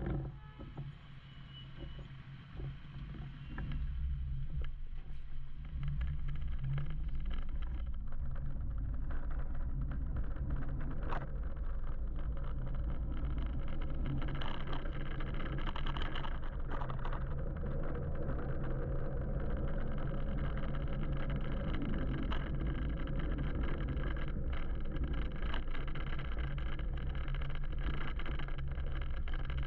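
Riding noise from an electric motorbike in city traffic: a steady low rumble of wind and road, which grows louder about four seconds in as the bike picks up speed and then holds level. Passing traffic adds a few brief sharper sounds.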